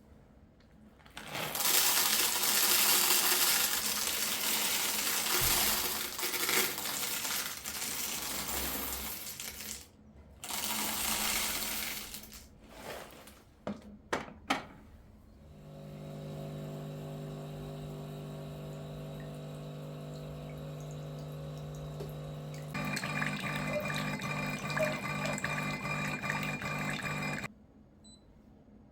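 A rushing noise that runs for several seconds, stops, and comes again briefly, then a few clicks. After that a steady machine hum starts, turns into a pulsing hum about two or three times a second, and cuts off suddenly.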